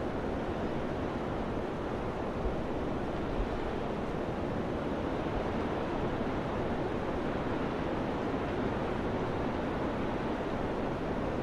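Wind blowing in a steady, even rush, with a couple of brief low thumps a few seconds in.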